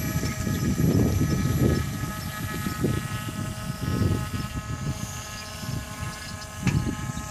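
The small engine and propeller of a homemade boogie-board airboat run steadily, a droning hum of several steady tones. Wind buffets the microphone underneath.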